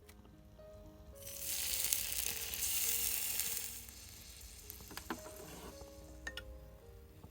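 Food sizzling in a miniature frying pan: a loud hiss that starts about a second in and dies down after about two and a half seconds, followed by a couple of light clicks.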